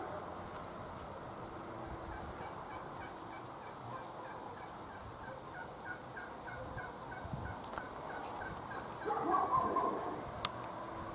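Birds calling: a run of short, evenly spaced notes for several seconds, then a louder burst of calls about nine seconds in. A single sharp click comes shortly after.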